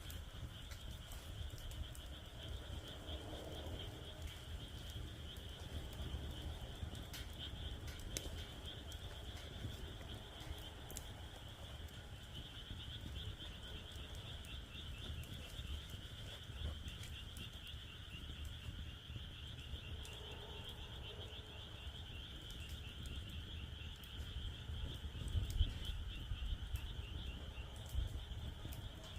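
Wood fire in a fire pit crackling with scattered pops, over a steady, rapidly pulsing chorus of frogs calling.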